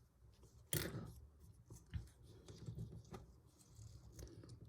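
LEGO plastic pieces being handled: a few sharp clicks and light rattling as parts are picked up and set down, the loudest click about three-quarters of a second in.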